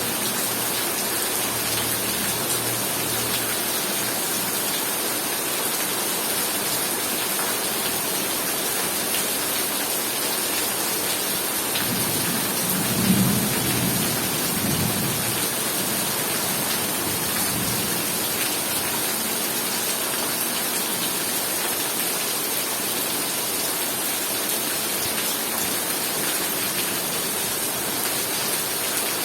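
Heavy rain falling steadily. About twelve seconds in, thunder rumbles low for a few seconds, with a brief louder peak near its start before it rolls away.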